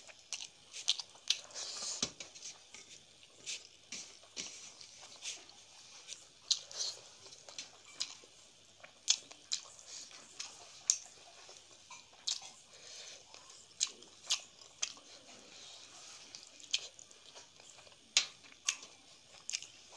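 A person chewing a mouthful of rice and chicken curry, with many sharp clicks at irregular intervals.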